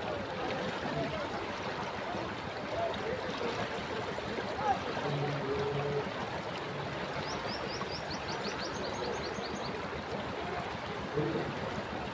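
Flowing river water making a steady rushing hiss. Just past the middle comes a quick run of high chirps lasting about two seconds.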